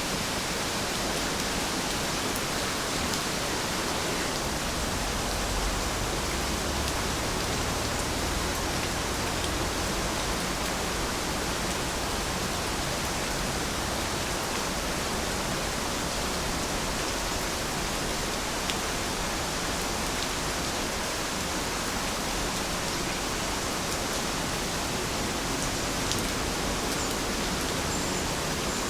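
Heavy rain falling steadily, a dense even hiss of drops with a few faint patters standing out.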